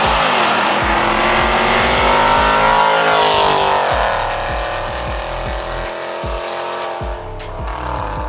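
Cammed 5.7 HEMI V8 of a Dodge Challenger R/T with long-tube headers, revving hard: the pitch climbs for about three seconds, drops near the middle and then holds steadier. Background music with a steady beat plays under it.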